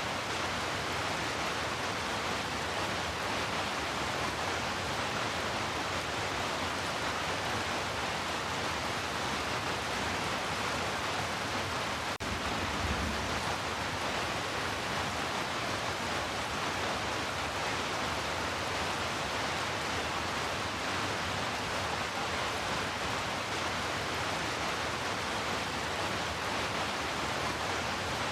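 Heavy rain falling as a steady, even hiss, with one brief low thump about halfway through.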